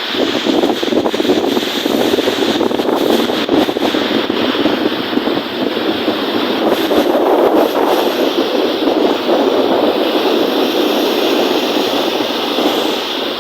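Wind-driven lake waves washing and breaking in a steady rush that swells and eases, with wind buffeting the microphone.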